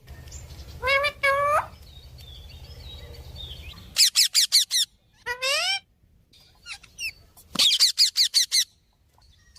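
Pet parrot calling: two pitched calls about a second in, then a quick run of high chirps, another call, and a second run of rapid chirps near the end.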